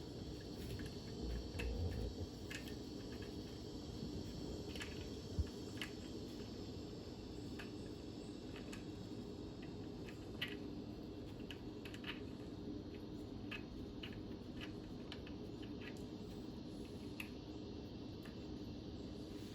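Irregular light clicks and taps of hand work on the stern drive's mounting hardware, nuts being fitted onto the studs, over a steady background hum. There is a low thump about 1.5 seconds in and a single sharp knock about 5 seconds in.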